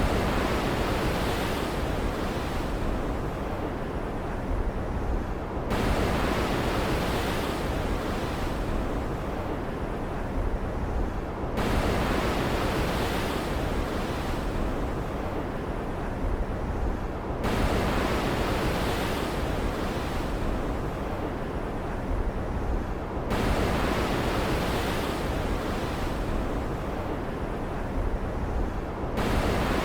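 Stormy ocean ambience: a steady rushing of surf and rain that swells and eases in a cycle of about six seconds, changing abruptly at each turn as the same stretch of sound loops.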